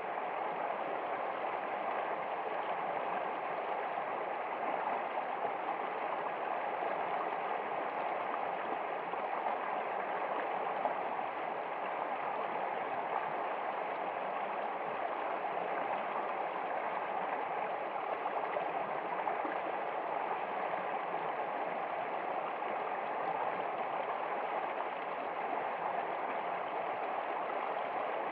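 Steady flowing water of a stream, an even rushing with no breaks or changes.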